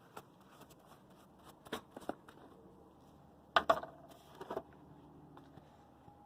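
A few light clicks and knocks from handling objects, over faint background noise. The loudest cluster comes a little past halfway, with another knock shortly after.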